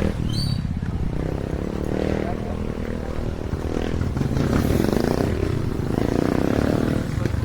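Small motorcycle engine running while carrying a rider, its pitch rising and falling with the throttle, over wind and road noise.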